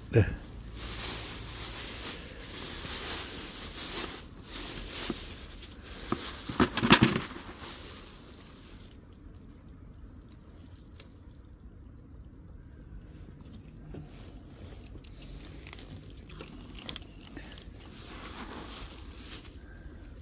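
Street cats eating, with crunching and crinkling, and a few sharp knocks in the first seven seconds. It goes quieter about eight seconds in.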